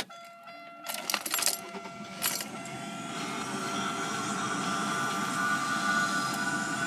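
Keys clicking in the ignition of a 1999 Buick Century, then its V6 engine starting about two seconds in and settling into steady running that grows louder toward the end, with a steady high tone above it.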